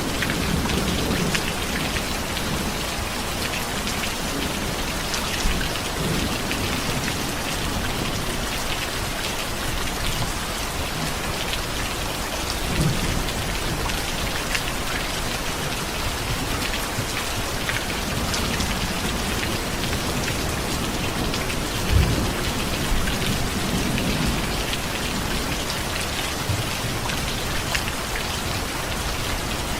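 Steady heavy rain falling in a dense, even hiss, with a few low rumbles of thunder. A short sharper rumble comes about 22 seconds in.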